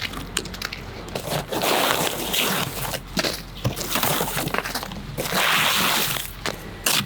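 Ice being scraped off a car, several rasping strokes about a second long with short knocks between them.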